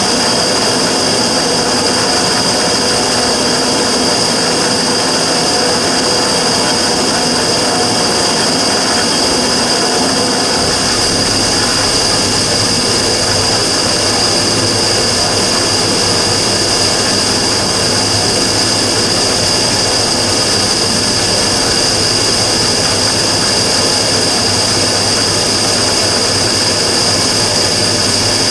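Immersion-tube burner running steadily with a loud rushing noise and a steady high whine, joined about eleven seconds in by a low hum; this is the abnormal noise the burner was recorded for.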